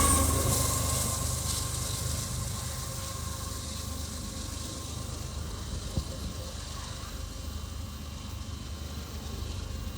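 A passing train fading away as it recedes, its wheel squeal dying out over the first few seconds, leaving a steady low rumble. A single sharp click about six seconds in.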